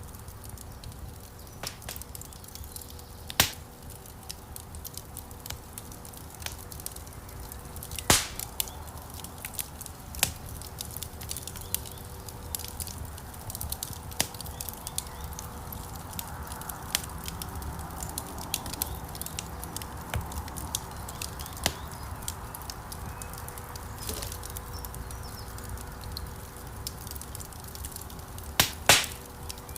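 Wood fire burning in a fireplace: a steady low rush of flames with frequent small crackles and a few sharp, loud pops, the loudest pair near the end.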